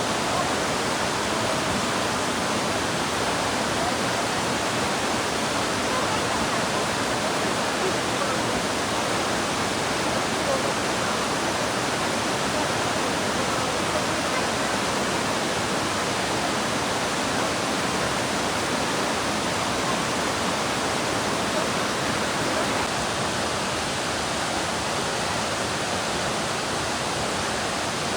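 Steady rushing of a large waterfall, Thomson's Falls, heard close to the falling water; it eases off slightly near the end.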